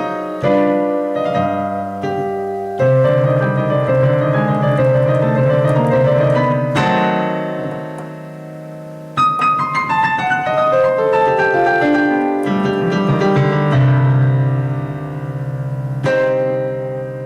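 Background piano music: sustained chords and arpeggios, with a descending run in the middle and a final chord about a second before the end that fades away.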